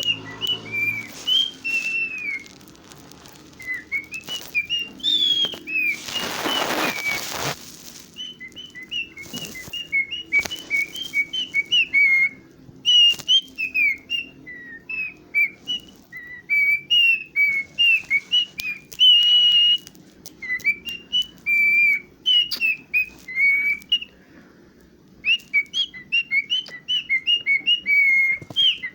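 Cockatiel whistling in runs of short, quick notes that rise and fall like a tune, with a few longer held notes. A short burst of rustling noise comes about six seconds in.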